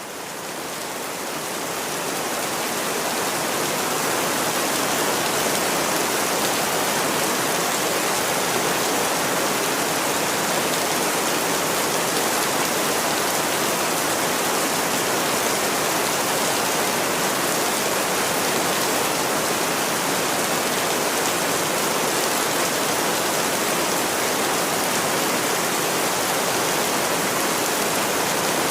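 Steady, dense rainfall, an even hiss with no distinct drops standing out; it fades in over the first few seconds and then holds steady.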